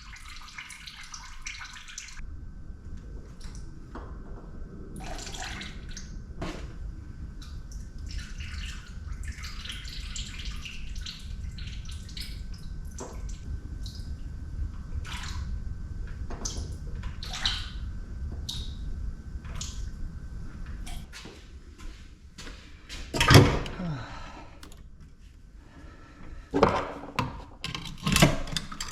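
Small ice maker being dismantled for scrap: oil from its refrigeration parts runs and drips out at first, then parts are handled with small clicks and rattles over a steady low hum. One loud knock comes a few seconds before the end, followed by several metal clinks.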